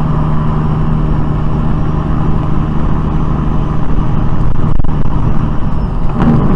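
A motor vehicle's engine and road noise, running steadily with a constant low hum.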